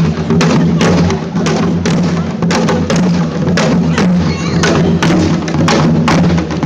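Live percussion ensemble playing a steady driving beat, drum strikes about three a second over a sustained low tone.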